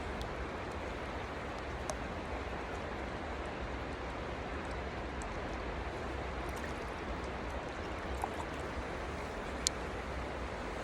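Stream water rushing steadily, with a few faint ticks.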